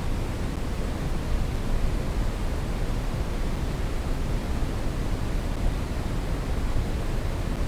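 Brown noise: a steady, even rushing hiss weighted toward the bass, with no change or events.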